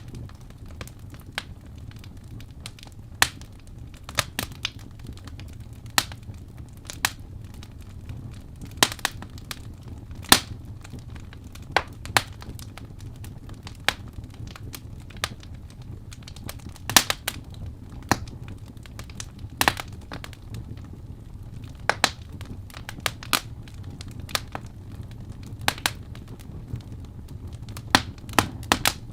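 Wood fire burning in a fireplace, a steady low rumble of the flames with sharp, irregular crackles and pops from the burning logs.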